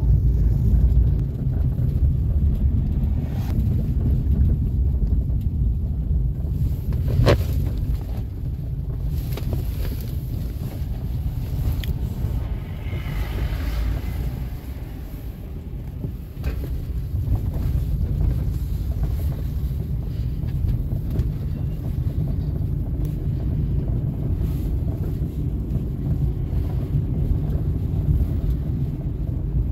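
Steady low rumble of a moving car with wind buffeting the microphone, broken by a few sharp knocks.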